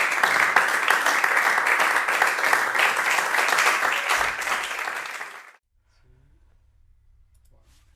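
Theatre audience applauding, a dense patter of many hands clapping that cuts off abruptly a little over five seconds in, leaving only a faint low hum.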